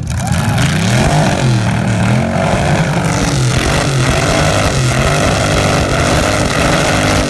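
A domestic car's engine revved hard through its exhaust again and again, the pitch climbing and falling about six or seven times in quick succession.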